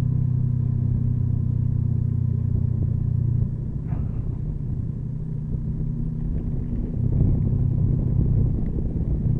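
Motorcycle engine running steadily in a low gear on a downhill mountain road, with road and wind noise. The engine note eases off about three and a half seconds in and picks up again around seven seconds.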